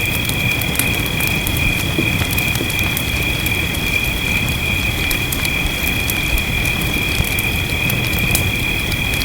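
Fireplace crackling with scattered sharp pops over a steady low rumble of rain, with a continuous high-pitched chirring drone held throughout.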